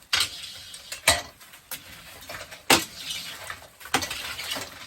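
Crawfish being scooped across a grading grid with a homemade scoop tool, the crawfish claw: a clinking, rattling clatter of shells and tool against the grid, with about five sharp knocks, the loudest a little under three seconds in.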